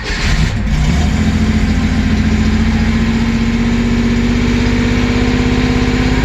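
Porsche 911 flat-six catching on a cold start: the revs rise in the first second, then it settles into a steady idle.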